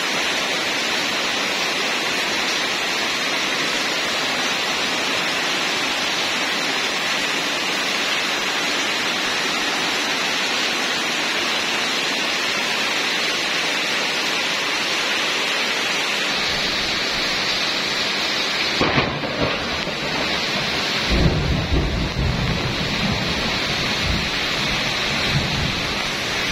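Heavy rain falling steadily with a constant hiss. Over the last ten seconds a low rumble comes in and swells unevenly.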